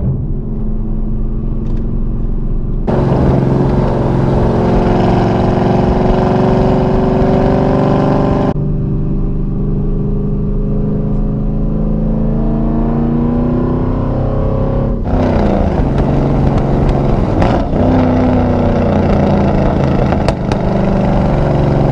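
Chevrolet Camaro SS V8 engine and exhaust under way, pulling through the gears: its pitch climbs and falls back several times as it speeds up and shifts.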